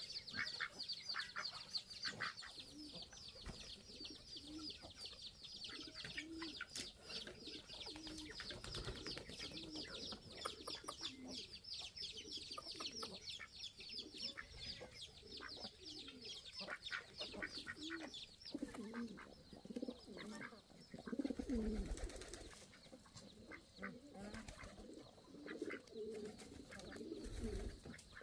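Pigeons cooing in short, low calls, with a fast run of high chirps that stops about two-thirds of the way through.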